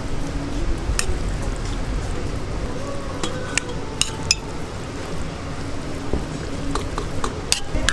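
Kitchen cooking sounds: a steady frying sizzle with a series of sharp clinks of utensils and dishes, several of them near the end.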